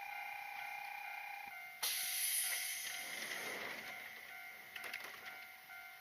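Railway level crossing warning bell ringing in a steady repeating pattern. About two seconds in, a train lets out a sudden loud hiss of air that fades away over the next couple of seconds.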